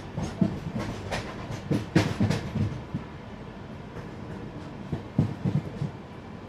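Inside a moving passenger train coach: the running rumble of the train, with clusters of clacks and knocks as the wheels pass over rail joints, one group about two seconds in and another near the end.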